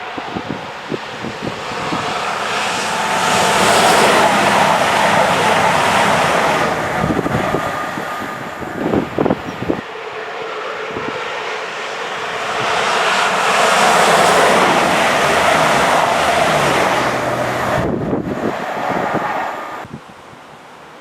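A train passing on the line, its noise swelling and easing twice, with strong wind buffeting the microphone. The sound drops away suddenly near the end.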